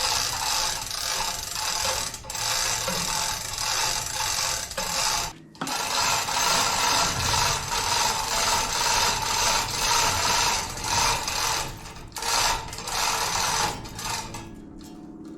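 A hand-worked lifting device ratcheting and clattering as it raises a load. It pauses briefly about five seconds in and several times near the end, then dies away.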